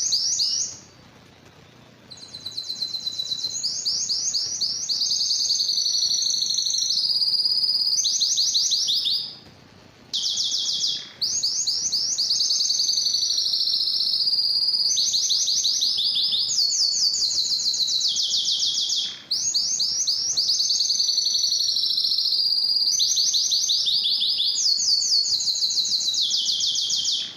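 Domestic canary singing long phrases of fast trills and rapid repeated notes, high and bright. It breaks off briefly about a second in and again just before the ten-second mark.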